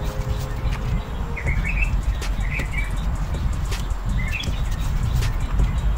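Small songbirds chirping in short twittering phrases, four times in six seconds, over a steady low rumble, with a few light clicks.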